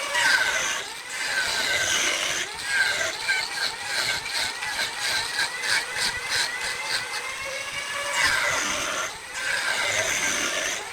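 Wood lathe running with a turning tool cutting the spinning wood: a whining tone that bends up and down as the tool engages, with a rapid regular ticking.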